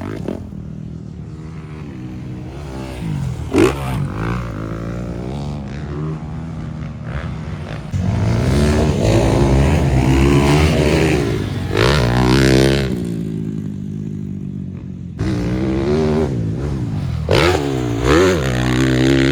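Motocross dirt bike engines revving up and down, their pitch rising and falling again and again as they ride the track. The level jumps up abruptly twice, to a louder stretch of revving.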